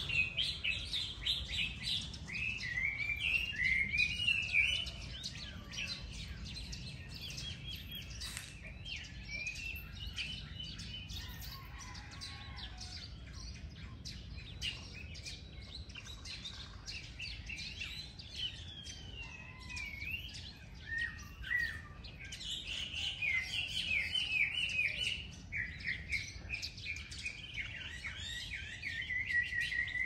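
Several birds chirping and singing in an overlapping chorus of short, high phrases and trills, busiest in the first few seconds and again through the last eight or so. A steady low rumble sits underneath.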